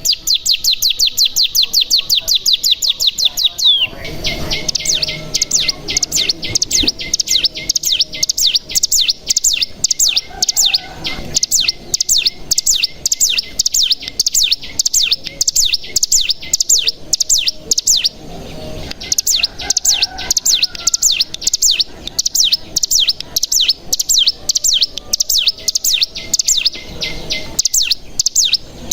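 Ciblek gunung (cigun, a mountain prinia) singing its long, fast 'bren' trill: sharp, high notes repeated many times a second with hardly a pause, with a thin steady whistle beneath for much of it.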